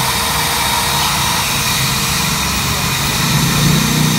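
Electric hand drill running at a steady speed, spinning a wire brush against the combustion chamber and valves of a Yamaha NMAX cylinder head to clean off carbon: a steady whine over the hiss of bristles on metal.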